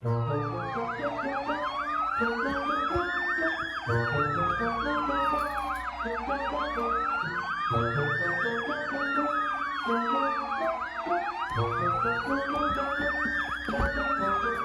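Police siren sounding continuously, a slow rising-and-falling wail layered with a fast yelp, over background music with a bass note that comes back about every four seconds.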